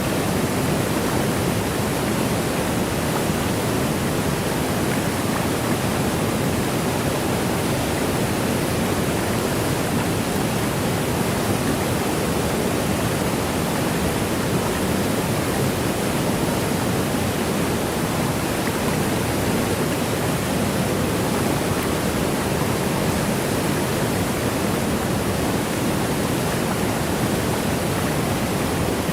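Waterfall rushing steadily: an even, unbroken wash of falling water with no change in level.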